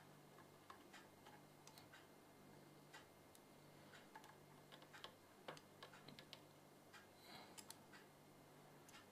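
Near silence: faint, irregular small clicks over a low steady hum.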